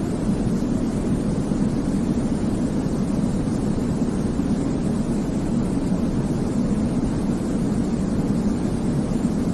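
Steady white noise for baby sleep, deep-pitched and even, with its weight low down and little hiss on top. It is unchanging throughout.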